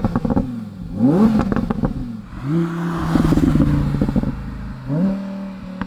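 Audi R8 V10 Performance Spyder's 5.2-litre V10 revving in blips: a quick rise and fall about a second in, a higher note held for about two seconds, then a rise again near the end. Sharp exhaust pops and crackles come in as the revs drop; these are the overrun crackles (Schubknallen) set to the hard mode, which cuts all cylinders.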